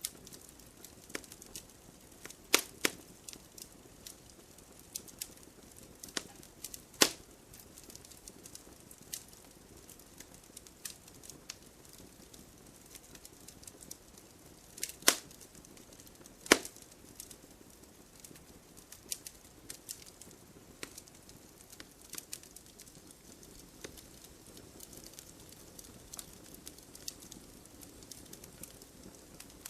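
Log fire in a fireplace crackling: scattered small snaps and four louder sharp pops, two in the first seven seconds and two about halfway through, over a faint steady hiss.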